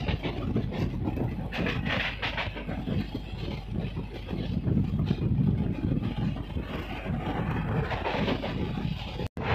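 Passenger train coaches running at speed, heard from an open coach door: a steady rumble of wheels on the track with irregular clatter over the rails. The sound cuts out for an instant near the end.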